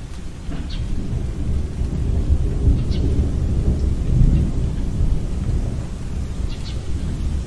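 Tornado wind blowing as a deep, continuous rumble that swells and peaks midway, with a few brief high whistles over it.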